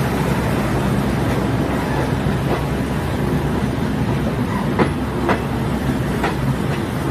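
Diesel multiple unit train running along the track: a steady low engine and rolling noise, with a few sharp wheel clicks over the rails near the end.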